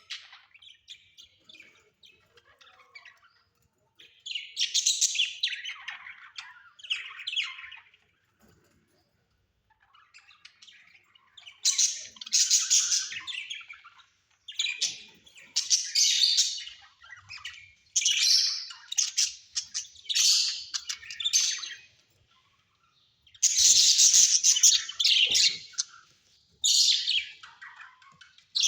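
Pet parrots chirping and squawking in repeated bursts of a second or two, separated by short pauses, with the loudest, busiest calling in the second half.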